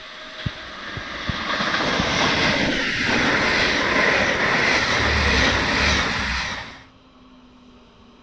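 A DSB passenger train running past at the station: a loud, steady rush of wheel and rail noise that builds over the first couple of seconds, with two sharp clicks in the first second and a half. It cuts off suddenly about seven seconds in, leaving a faint low hum.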